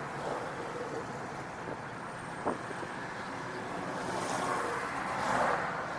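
Steady vehicle noise mixed with wind on the microphone, with a single sharp click about halfway through and the noise swelling for a second or so near the end.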